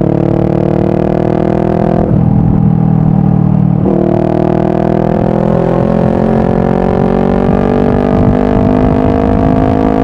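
Honda CBR500R parallel-twin engine with a Yoshimura full exhaust pulling through the gears. The engine note rises, drops at upshifts about two and four seconds in, then climbs slowly through the rest.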